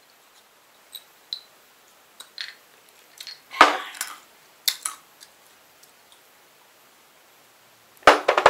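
Cutlery on a dish: scattered light clicks, a short scrape about three and a half seconds in, and a louder scraping clatter near the end.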